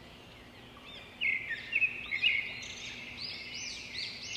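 Birds chirping and singing: a run of short, high, arching notes that starts about a second in and keeps repeating, over faint background hiss.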